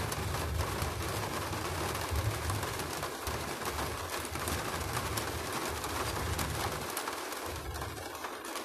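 Steady rain falling, with many drops ticking close by, over a wavering low rumble.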